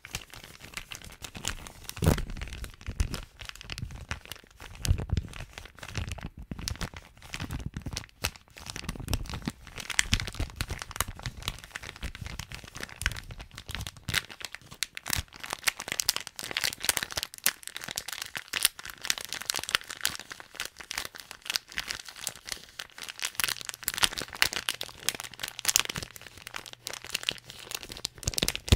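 Plastic bag being crumpled and crinkled in an irregular, continuous crackle, with dull handling bumps in roughly the first ten seconds.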